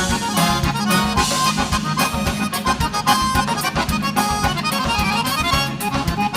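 Instrumental gaúcho dance music led by accordion, over a steady bass beat.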